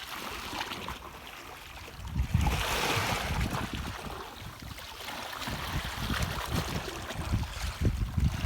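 Water splashing and lapping around a kayak, with a louder swell of splashing about two seconds in, while wind buffets the microphone in gusts.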